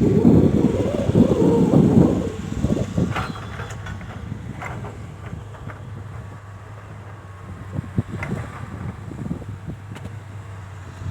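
Komatsu PC130 hydraulic excavator at work: the engine runs with a steady low hum, louder and rougher for the first two seconds, then settling lower, with a few scattered knocks.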